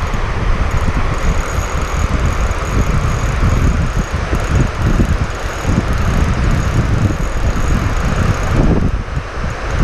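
Strong wind buffeting the microphone: a loud, steady, gusting rumble.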